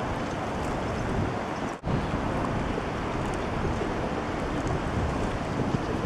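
Wind buffeting the camera microphone: a steady rushing noise, heaviest in the low end. It cuts out for an instant a little under two seconds in.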